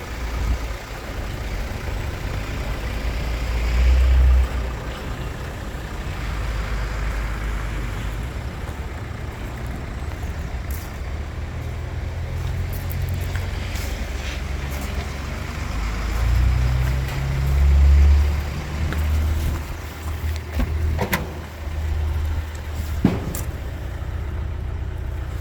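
Mercedes Citan 109 CDI's 1.5-litre four-cylinder diesel engine running with a steady low rumble that swells louder twice, once about four seconds in and again past the middle. A few sharp clicks come near the end.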